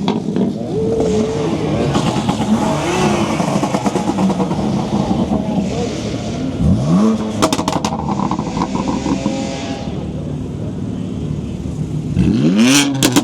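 Car engines revving hard at a car meet, with sharp upward rev sweeps about seven seconds in and again near the end, each followed by a rapid crackle of exhaust pops and bangs.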